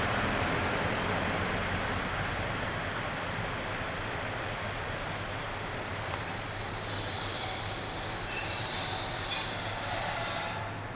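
Train moving through the station with a steady rumble of wheels on rail. About halfway in, a high, steady wheel squeal starts, and the sound grows louder until it cuts off abruptly at the end.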